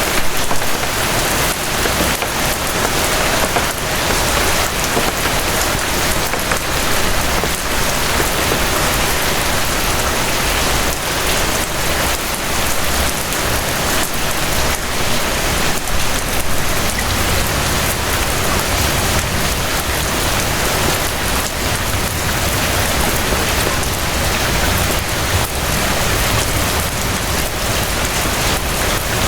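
Steady rain falling, a dense even hiss with many small drop impacts, over a low rumble.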